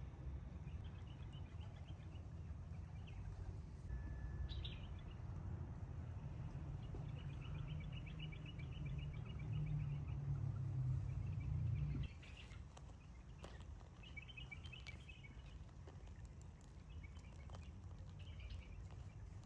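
Small birds singing in short, rapid trills, repeated every few seconds over a steady low rumble that drops away about two-thirds of the way through. A few sharp clicks come in the second half.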